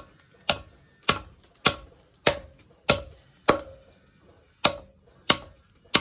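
Hammer striking spring steel on an anvil: about nine evenly spaced blows, a little under two a second, each with a short metallic ring, and a brief pause a little past the middle.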